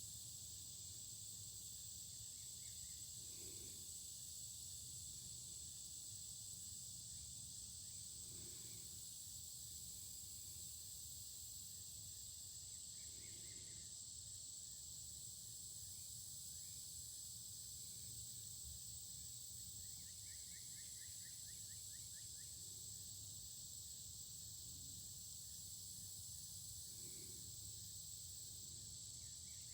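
Steady, high-pitched chorus of crickets or other insects droning without a break, with a few faint bird chirps now and then.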